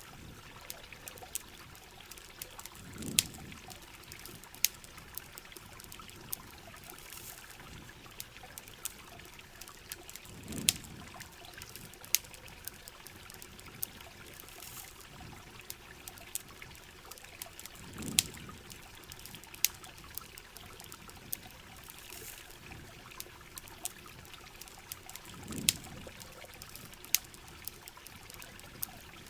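Steady heavy rain with trickling, pouring water, over which campfire wood crackles in scattered sharp snaps. A soft low thump with a louder snap comes four times, about every seven and a half seconds.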